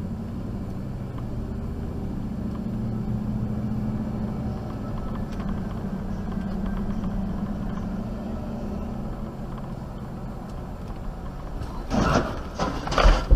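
A motor vehicle's engine and road noise hum steadily. About twelve seconds in, a run of loud, sharp knocks and crunches breaks in.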